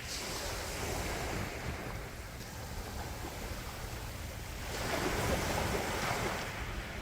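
Gentle sea waves washing on the shore, a steady wash of surf with one wave swelling and breaking about five seconds in.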